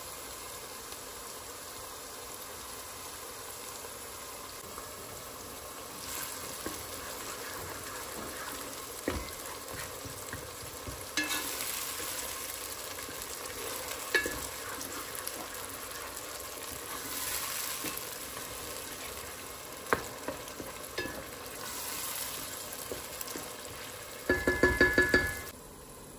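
Tomato, onion and pepper mixture sizzling in olive oil in a pot while a wooden spoon stirs it, scraping and now and then clicking against the pot. Near the end comes a fast run of about seven or eight loud knocks lasting about a second.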